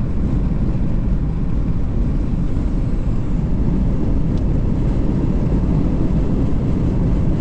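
Steady road and engine noise heard from inside a moving vehicle's cabin, a continuous low rumble.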